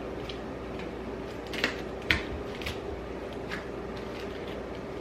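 A kitchen knife tapping on a cutting board a few times as vegetables are cut, the loudest tap about two seconds in, over a steady low hum.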